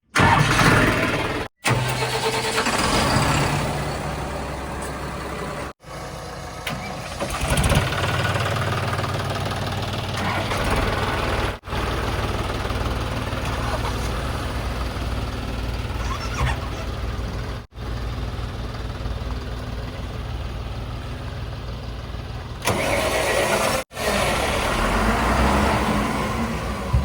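Heavy diesel machinery engines running steadily, broken by brief dropouts about every six seconds.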